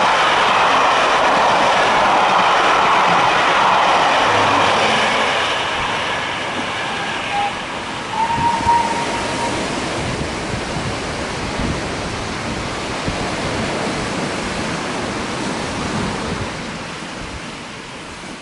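Steam-hauled passenger train's coaches clattering past on the rails, loud at first and then fading as the train draws away. A short high whistle sounds about eight seconds in, and surf washing on the beach comes through as the train fades.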